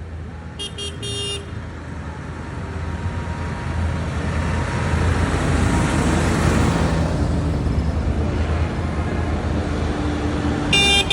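Truck engines rumbling as a truck passes close, the noise building to a peak around the middle and easing off. Short truck horn toots sound twice about a second in and again in quick blasts near the end.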